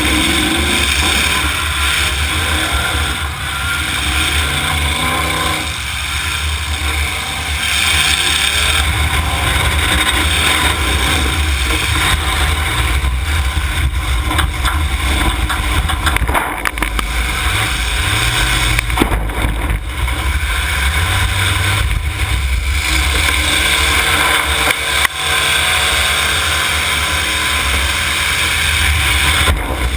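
Demolition derby cars' engines running hard and revving together, loud and continuous, with a few sharp crash-like knocks from car-to-car hits during the heat.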